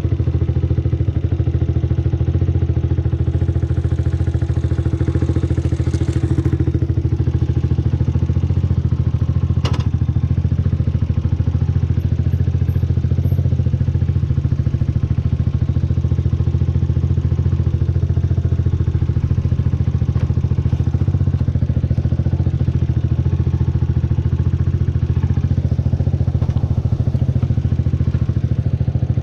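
Yamaha YZF-R125's single-cylinder four-stroke engine idling steadily at an even pitch, with one sharp click about ten seconds in.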